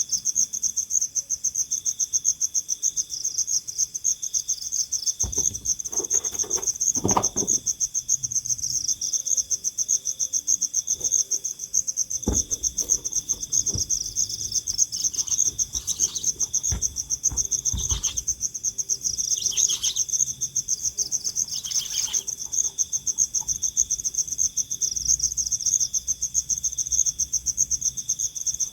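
Crickets trilling steadily in a fast, even pulse. A few low knocks come in the first half, and a few short, higher calls in the second half.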